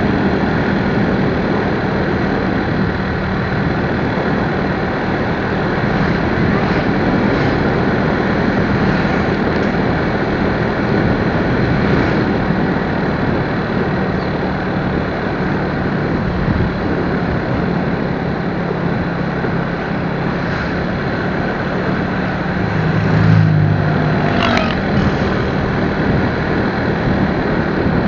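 Motorcycle engine running at a steady pace under loud rushing road and wind noise while riding. A short rise in engine note comes near the end, with a brief thin squeal just after.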